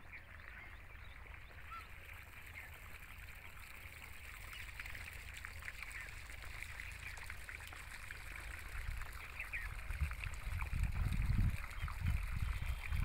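Open-field ambience: faint, scattered bird chirps over a steady hiss, with wind gusting on the microphone in the last few seconds.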